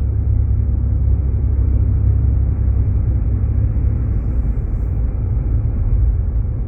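Steady low rumble of a Jeep Grand Cherokee's engine and tyres, heard from inside the cabin while driving on a snow-covered road.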